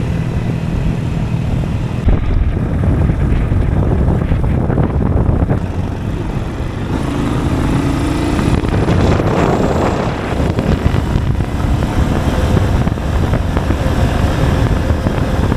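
Steady low rushing rumble of river current flowing over an underwater action camera, with a brief surge of noise about halfway through.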